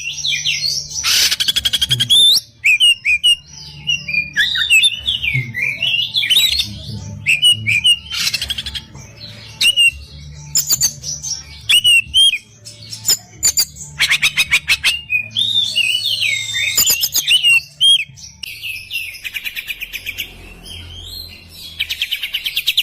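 An Oriental magpie-robin (kacer) singing a fast, varied song of sharp whistled notes, broken several times by short harsh rattling trills, in the excited 'emosi' mode used to provoke other kacer into singing. A faint low hum runs underneath.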